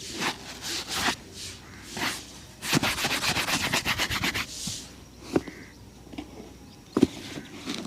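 A shoe being brushed and rubbed during a shoe shine: scattered scrubbing strokes, then a quick run of brisk back-and-forth strokes, about a dozen a second. Later come two sharp knocks.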